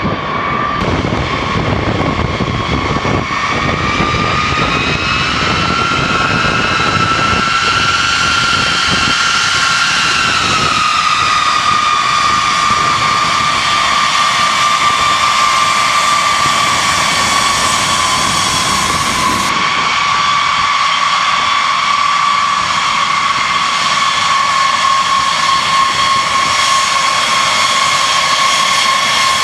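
Jet aircraft engines running with a steady high whine; the pitch climbs slightly, then settles back down about ten seconds in and holds.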